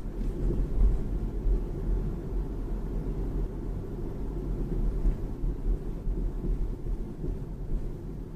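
Low, uneven rumble of a BMW 3 Series (G20) on the move: road and running-gear noise.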